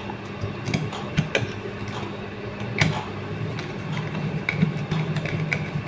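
Screwdriver driving the screws of a GE discrete I/O pack: irregular small clicks and ticks of the tool and screws, over a steady low hum.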